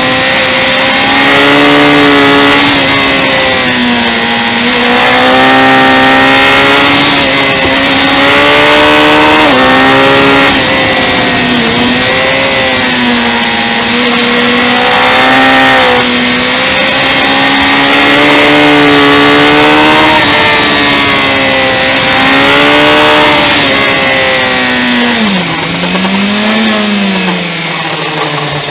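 Motorcycle engine heard from on board, its revs rising and falling repeatedly through a series of bends, over heavy wind rush. Near the end the revs drop sharply, then rise and fall once more.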